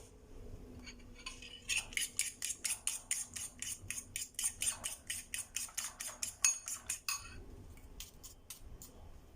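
A cooking utensil clinking against a pan, as when stir-frying noodles, in quick repeated strikes at about four or five a second for roughly five seconds, then a few scattered taps.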